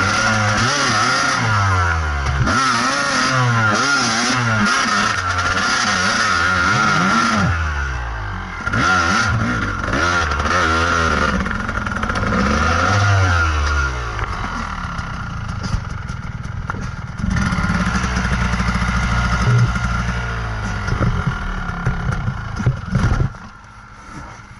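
Kawasaki KDX220 two-stroke dirt bike engine revving up and down again and again as it is ridden over rough trail, with clattering. After about fourteen seconds the engine settles to a steadier low note, and it drops away sharply near the end.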